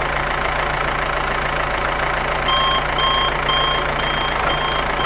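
Engine running steadily, joined about halfway by a reversing alarm beeping about twice a second.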